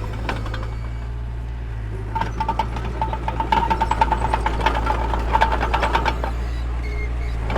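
Mini bulldozer's diesel engine running steadily, with a stretch of rapid metallic clattering and squeaking from about two seconds in until about six seconds.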